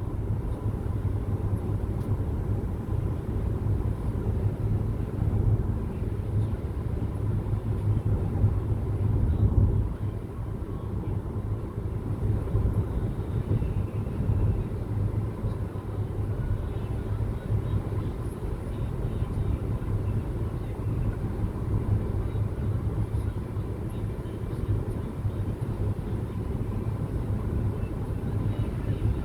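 Steady low rumble of a car driving, engine and tyre noise, swelling a little just before the middle and then easing.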